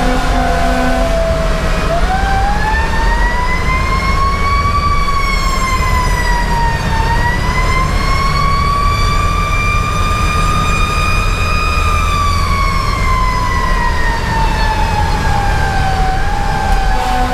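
Fire engine's Federal Q2B mechanical siren winding up and coasting down in long, slow wails, the pitch rising over a few seconds, dipping once, rising again, then falling away gradually. The truck's diesel engine and road noise rumble steadily underneath.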